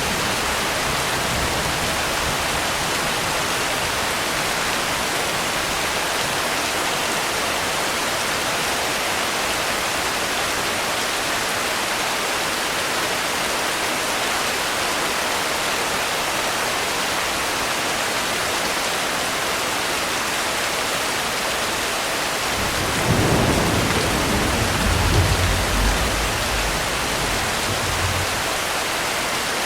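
Steady rain hiss, with a low rumble of thunder about three-quarters of the way through that lasts a few seconds and dies away.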